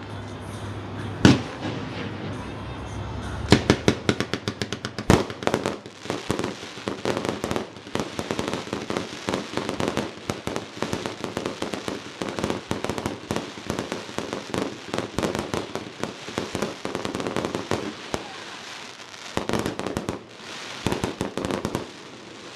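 Aerial fireworks going off: a few single loud booms in the first seconds, then a long dense run of rapid crackling and popping bursts that thins out near the end.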